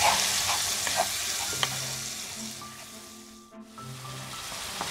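Onion-and-spice masala sizzling in hot oil in a nonstick frying pan while a wooden spatula stirs and scrapes it, a few scraping strokes in the first second or so. The masala is being fried down with a splash of water. The sizzle fades to a brief lull a little past halfway, then returns more faintly.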